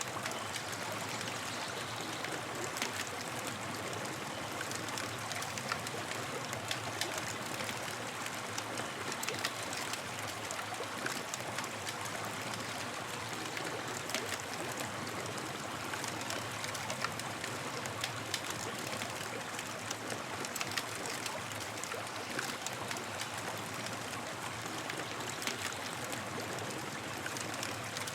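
Campfire crackling steadily, with frequent small sharp pops and snaps over a constant hiss.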